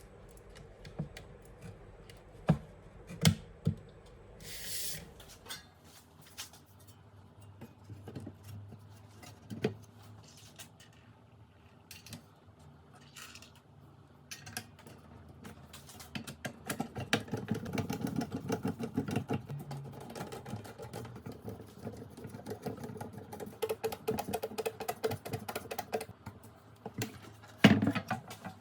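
Irregular sharp clicks and clattering of small hard objects being handled, with a short hiss about five seconds in and a long stretch of rapid, dense rattling in the second half.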